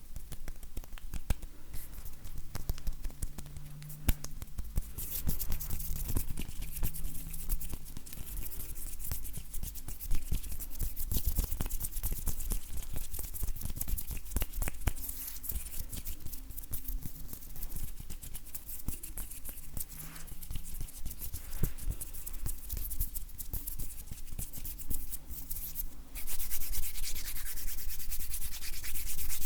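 Dry bare hands rubbing and brushing against each other close to the microphone: a soft rustle of skin with many small crackles and clicks. It gets louder and more continuous about 26 seconds in.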